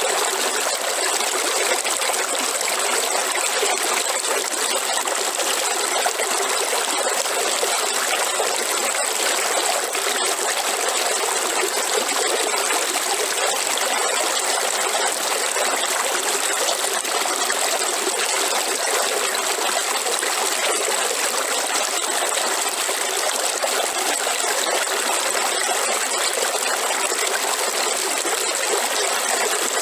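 Running river water, rushing and babbling steadily without a break. A steady high-pitched tone runs through it.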